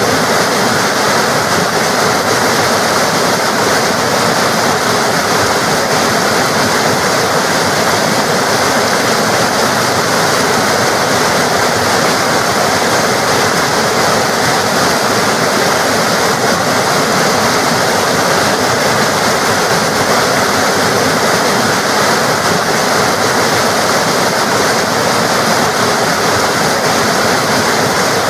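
Water rushing and splashing in a steady, unbroken flow, a forest stream or small waterfall.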